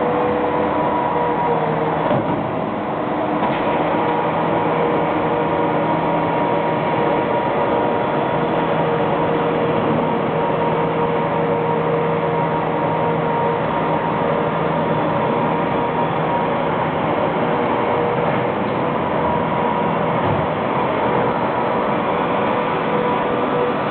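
Tractor sweeping dirt off a concrete deck: a steady engine hum over a continuous broad hiss, with no breaks.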